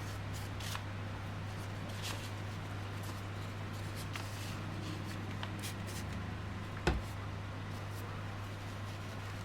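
Light handling of small plastic earbud parts: faint scattered clicks and rubbing, with one sharper click about seven seconds in, over a steady low electrical hum.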